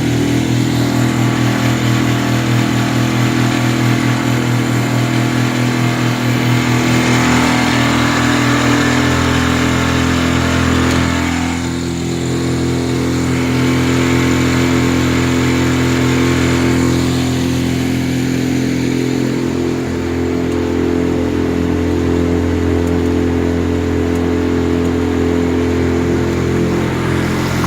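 Hidea 3.6 outboard motor on a Progress-2 boat running steadily, with a brief dip in level about twelve seconds in.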